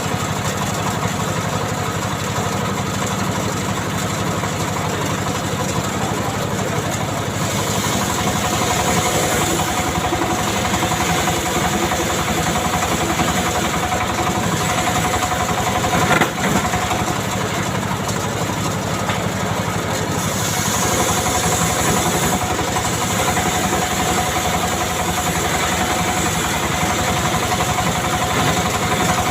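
Stihl MS 381 two-stroke chainsaw engine running steadily, with two spells where its sound turns brighter and higher, and a brief dip about halfway through.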